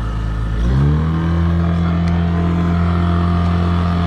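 9.9 hp Mercury outboard kicker motor being throttled up from half to full power. Its pitch rises over about half a second, about a second in, then holds steady at full throttle while pushing a heavily loaded boat.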